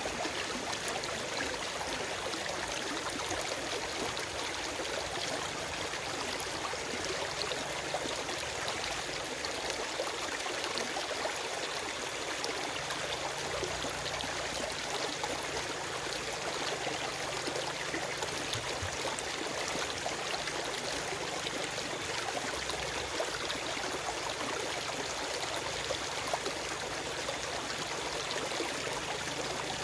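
Forest stream flowing over rocks, a steady rushing and trickling of water, with no birdsong.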